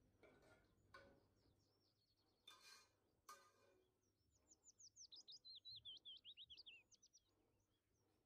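Faint birdsong: scattered high chirps, then a quick run of short, falling whistled notes in the middle. A few soft knocks in the first few seconds.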